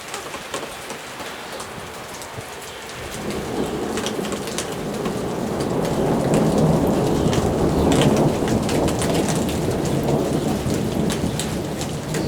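Rain falling with sharp close drop impacts, and about three seconds in a long roll of thunder builds, loudest around the middle, then rumbles on to the end.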